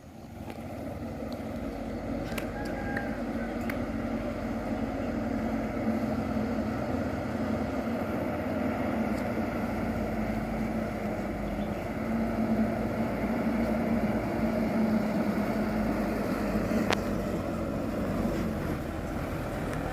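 Mitsubishi Canter truck's diesel engine running at low speed under a load of sugarcane, a steady hum that grows louder over the first couple of seconds and then holds.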